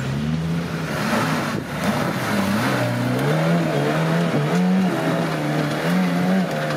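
Off-road 4x4 engine revving hard again and again, its pitch rising and falling as the driver works the throttle, pushing through mud.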